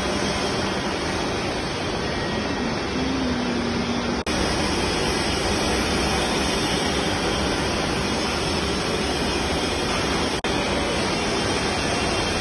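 Steady, loud machine noise with no clear rhythm, cutting out for an instant twice, about four and ten seconds in.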